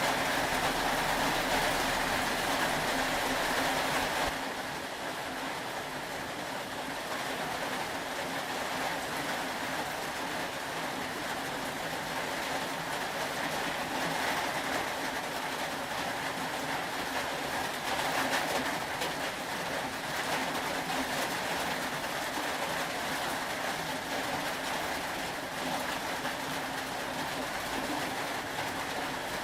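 Steady rain, an even hiss with a faint steady hum beneath it; it gets a little quieter and thinner about four seconds in.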